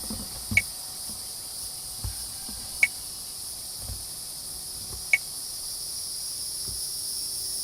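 Steady, high-pitched insect chorus droning without a break. Three short, sharp, high-pitched ticks cut through it, about two seconds apart, and are the loudest sounds.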